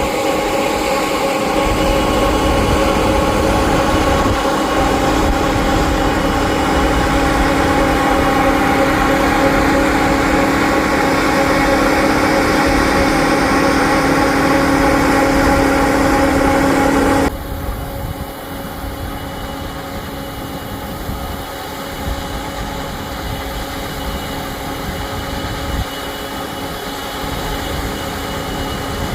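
Heavy farm machinery running steadily at harvest, with an even engine hum and whine. About 17 seconds in, the sound drops suddenly to a quieter, duller running note.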